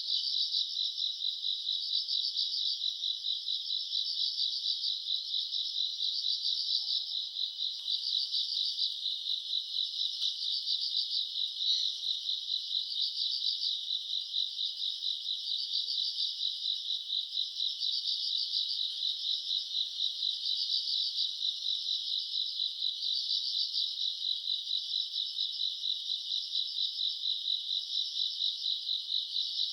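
Chorus of crickets and other grass insects calling at night: a steady high trill with a louder chirping pulse that repeats about every second and a half.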